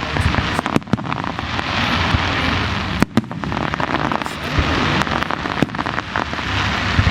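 A fireworks display: dense, continuous crackling peppered with many sharp bangs, a few of them standing out louder, about one, three, four and a half and seven seconds in.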